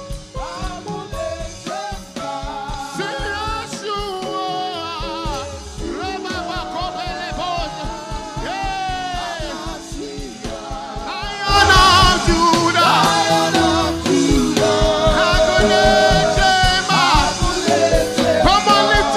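Gospel worship song: a voice singing over a band with a steady beat, the full band coming in louder about halfway through.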